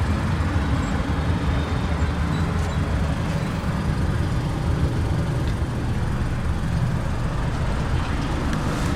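Steady low vehicle rumble with a hiss of noise above it, even throughout, heard around a stationary car.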